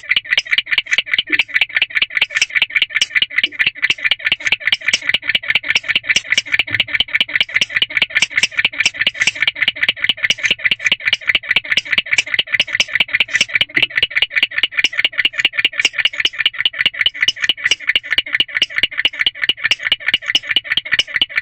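Male barn owl chirping in a rapid, steady run of short calls, about four or five a second, without a break.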